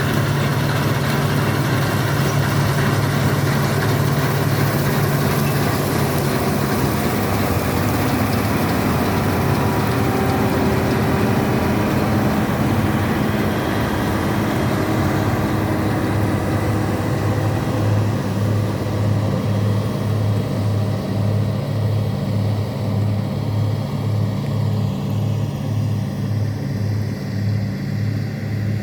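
Bizon Rekord Z058/1 combine harvester's 6CT107 six-cylinder diesel running steadily under load. In the second half a low beat pulses about twice a second, and the sound grows slightly softer and duller.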